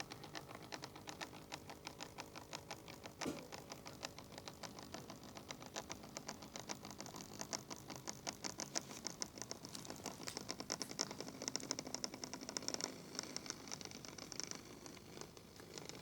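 Model railway locomotive, a model Class 55 Deltic, running with a freight train: a steady stream of rapid light clicks from the wheels on the track over a faint motor hum, a little louder for a few seconds past the middle.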